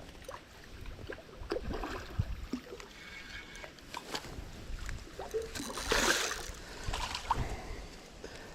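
Water splashing with scattered knocks and rustles as a hooked carp is fought and landed in shallow creek water, with a louder splash about six seconds in.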